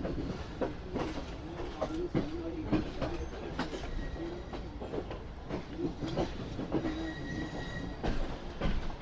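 Passenger train running: irregular clatter and knocks of steel wheels over the rails, with a wavering squeal running under them.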